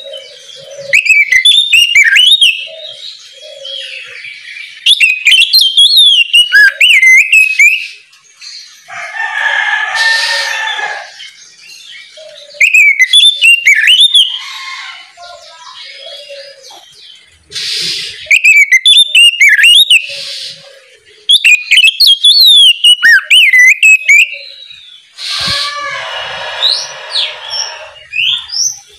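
Oriental magpie-robin (kacer) in full song: loud bursts of fast, sweeping whistled phrases, broken twice by a long harsh rasping call of a couple of seconds.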